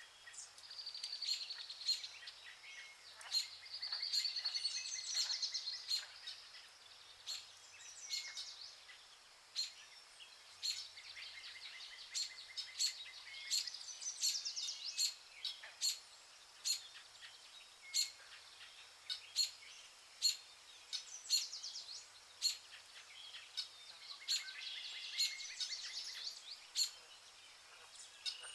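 Rainforest birds singing in trilled phrases of a few seconds each, with a sharp short call repeating about once a second.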